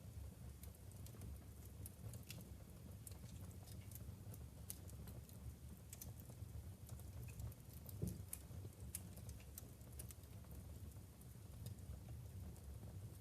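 Burning logs crackling in a wood-burning fireplace: scattered sharp snaps and pops over a low steady rumble, with one louder pop about eight seconds in.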